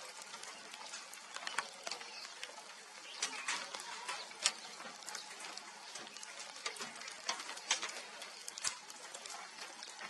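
Scattered short, sharp bird chips at irregular intervals over a faint steady hiss.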